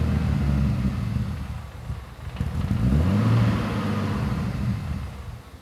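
Turbocharged BMW M50 straight-six running at a high, unsteady idle, with one brief rev up and back down about halfway through. It will not idle below about 1500 rpm because there is no vacuum in the intake manifold, a sign of too much camshaft valve overlap.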